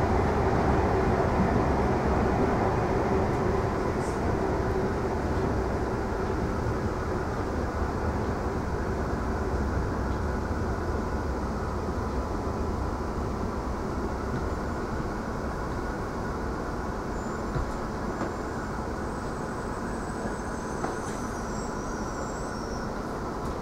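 Cabin noise of an Adelaide Metro 4000-class electric train slowing into a station: a steady rumble of wheels on rails that fades gradually as the train comes to a stop. A faint high whine appears near the end.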